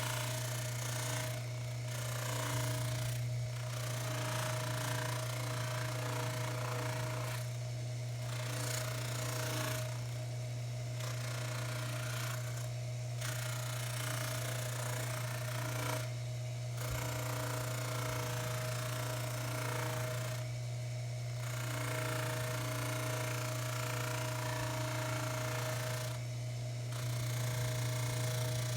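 Baldor 353T dental lathe running steadily as a buffing wheel, with a constant motor hum. Over the hum is a rushing hiss, the stem rubbing on the tripoli-charged wheel, which drops out briefly every few seconds.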